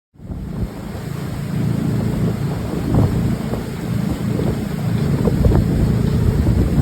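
Wind buffeting the microphone on a moving motorboat, over the rush of water and the boat's engine.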